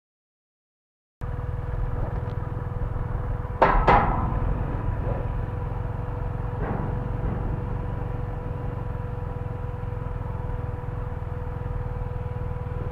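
Steady low rumble of a motorcycle ride with wind on the microphone, with a faint constant whine. It starts after about a second of dead silence, and there are two sharp knocks close together about four seconds in.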